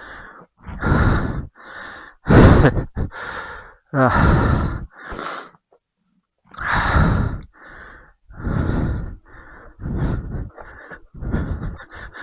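Heavy, rapid breathing of a rider exerting himself, close to the microphone: breaths in and out a little under a second apart, with a short pause about halfway through.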